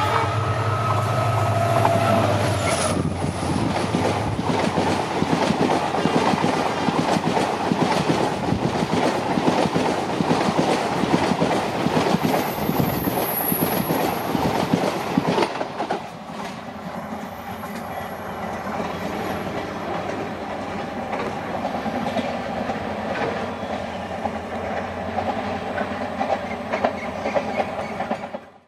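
Diesel-hauled Indian Railways train passing at speed. A horn tone ends about three seconds in, then a long run of wheels clattering over the rails. The clatter drops in level about sixteen seconds in and cuts off abruptly near the end.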